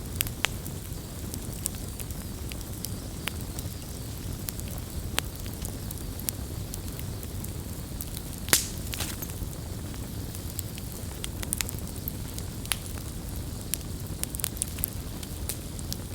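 Campfire burning: a steady low rumble of flames with scattered sharp crackles and pops, the loudest pop about eight and a half seconds in.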